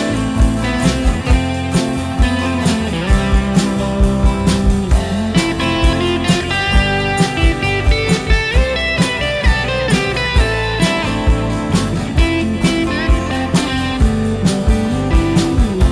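Instrumental break in a live band's blues-country song: a guitar plays a lead line with sliding notes over bass and a steady drum beat.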